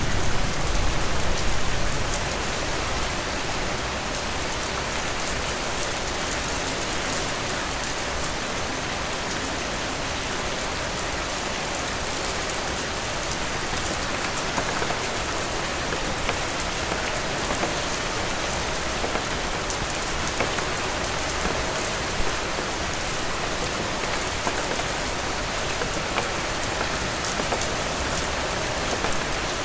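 Heavy rain falling steadily, a dense hiss with scattered drop ticks. A low rumble makes the first two seconds louder before it settles to an even wash.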